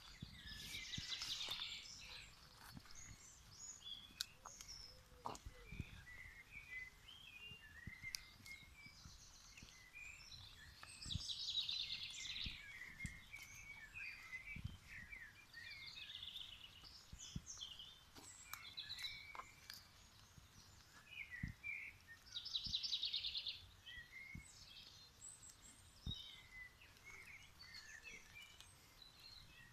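Wild songbirds singing and calling, with many short chirps and three louder trilled phrases: about a second in, around twelve seconds and around twenty-three seconds. A few soft knocks are heard in between.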